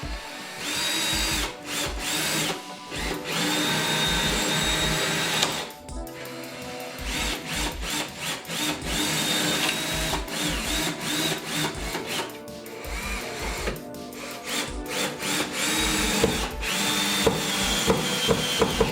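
Power drill running in repeated short bursts, its motor whine starting and stopping, over background music with a steady beat.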